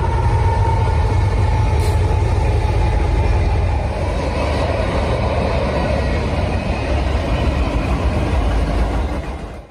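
A moving train running by with a heavy, steady low rumble, cut off abruptly at the end.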